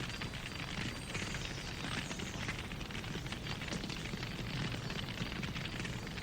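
Wood fire crackling steadily, many small snaps and pops over a low steady rumble of the flames.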